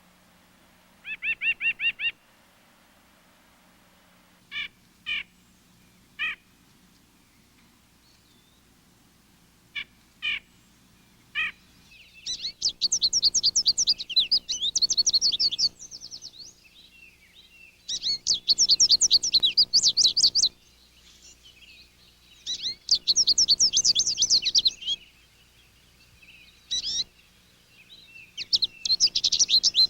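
Backyard songbirds calling and singing: a short trill, then scattered single sharp call notes, then several long songs of rapid repeated high notes, each lasting two to three seconds.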